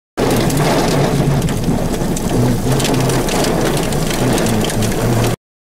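Heavy rain beating on a vehicle's windshield and roof, with a low rumble underneath. The sound starts and cuts off abruptly.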